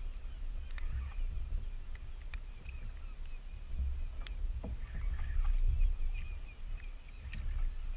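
Sea kayak afloat, with water slapping against the hull and an uneven low rumble on the microphone. Scattered small clicks and taps sound through it.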